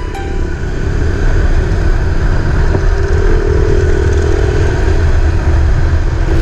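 Motorcycle engine running steadily on the move, growing louder over the first second, with heavy low rumble throughout.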